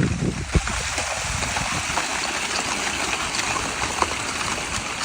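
Steady rushing hiss, with a single low thump about half a second in.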